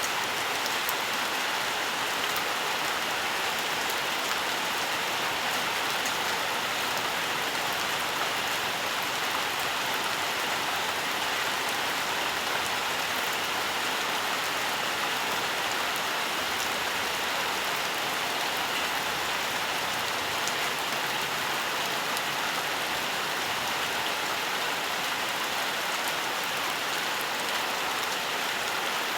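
Steady rainfall, a dense even hiss of drops with faint patter on top and no changes in strength.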